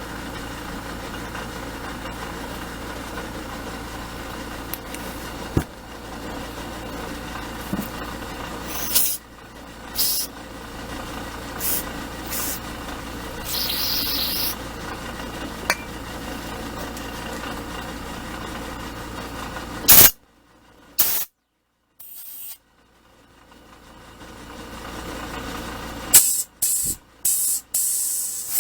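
Short hissing blasts of compressed air blown through a string-trimmer carburetor's passages to clear a restriction, with a longer blast a little before halfway and a quick run of blasts near the end. Under them is a steady motor hum that stops about twenty seconds in.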